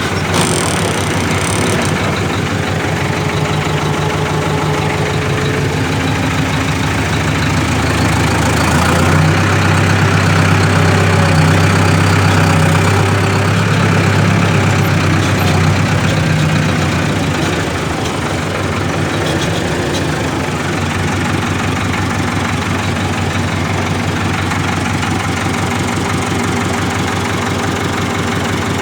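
Tractor engine running steadily at low revs; it grows louder for several seconds past the middle, then settles back to its steady run.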